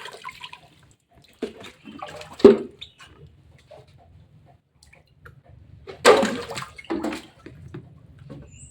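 Water splashing and pouring in separate short bursts, the loudest about two and a half seconds in and again around six to seven seconds in.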